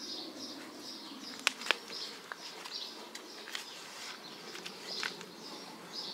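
Small birds chirping over and over, two or three short chirps a second, with a few sharp clicks in between, the loudest two close together about a second and a half in.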